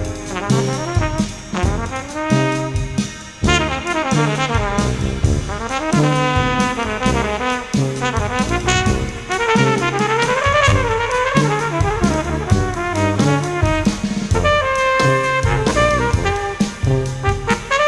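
Jazz brass ensemble playing: trumpets with baritone saxophone and tuba carrying melody and bass lines over a steady drum beat.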